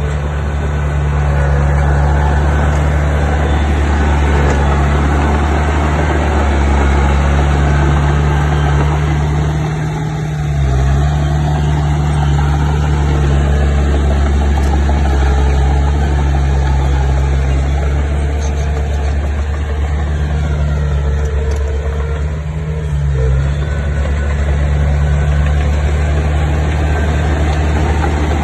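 Bulldozer's diesel engine running steadily under load, its note dipping briefly and recovering twice, once about ten seconds in and again about two-thirds of the way through.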